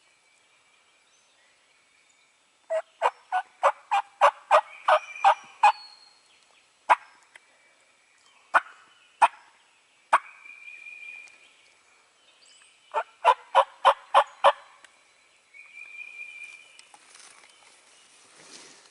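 Turkey calling: a loud run of about ten sharp notes at roughly three a second, a few single notes, then another quick run of about six near the end.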